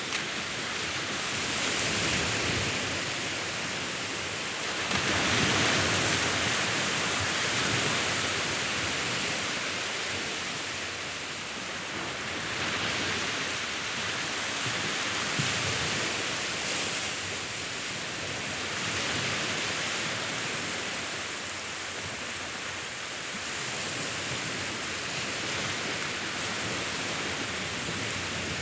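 Sea waves washing in: a steady rush of surf that swells and eases every few seconds.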